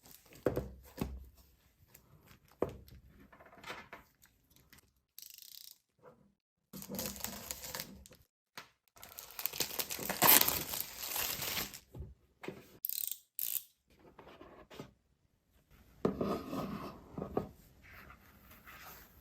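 Paper and drawing materials being handled: irregular bursts of paper rustling and scraping, the longest and loudest a little before the middle, with a few sharp clicks and taps in between.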